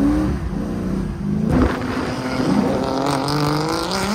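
Drift car engine revving up and down on the track, with a brief sharp crack about a second and a half in, then the revs climbing steadily for the last couple of seconds.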